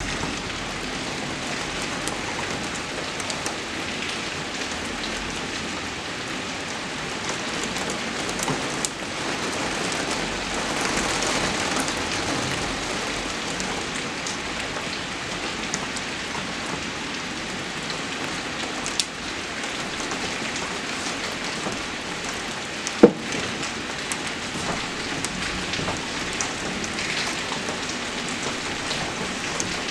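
Steady rainfall with scattered drops ticking on a surface, swelling slightly for a few seconds partway through. One sharp, loud knock stands out about two-thirds of the way in.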